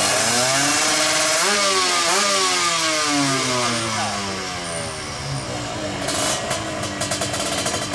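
155cc two-stroke drag bike engine revving hard, its pitch climbing and dropping several times, with a rapid crackle toward the end.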